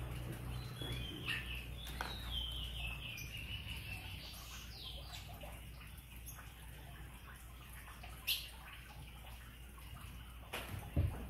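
A bird calling, a high whistled note that slides down and then back up, over faint small clicks of bonsai wire being worked around thin branches, with a sharper click near the end.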